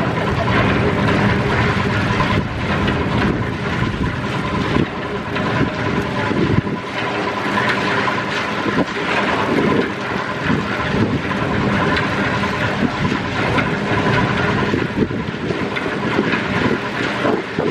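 A machine's motor running steadily, with a dense rattling noise over it.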